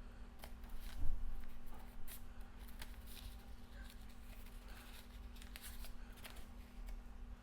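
Small clicks, taps and rustles of coffee brewing gear being handled, with a louder knock about a second in, over a steady low hum.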